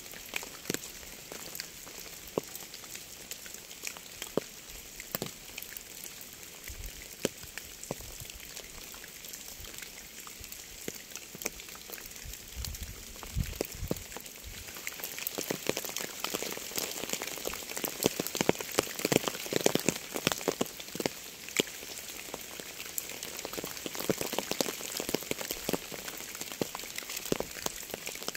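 Rain falling on a surface: a steady hiss full of distinct close drop hits, growing heavier and denser about halfway through, with a couple of brief low rumbles before that.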